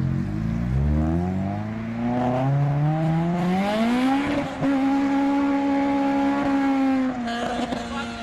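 Honda K20 four-cylinder engine accelerating hard. The revs climb steadily for about four seconds, hold high and level, then drop a little near the end.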